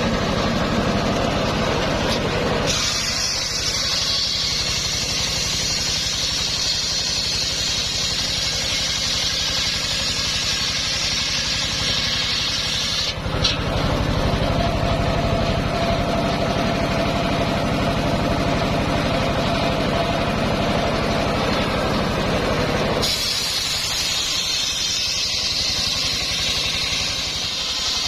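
Homemade circular sawmill running and sawing a coconut palm trunk, a loud steady machine noise. A higher hissing whine comes in about three seconds in, gives way to a lower hum partway through, and returns near the end.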